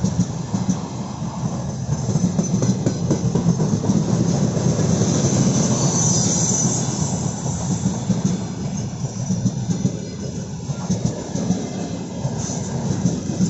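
Freight train rolling past: a steady rumble of steel wheels on the rails with clickety-clack, and a high-pitched wheel squeal about five to seven seconds in.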